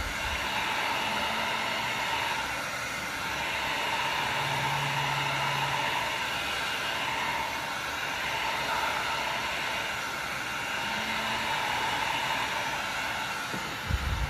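Electric heat gun blowing steadily, an even rushing hiss, with a couple of low knocks near the end.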